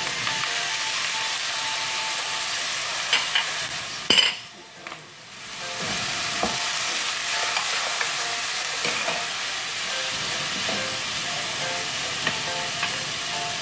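Chicken feet sizzling in hot oil in a nonstick pan, just doused with soy sauce, while they are stirred and turned over. A sharp click about four seconds in, then the sizzle drops away for about a second and a half before coming back.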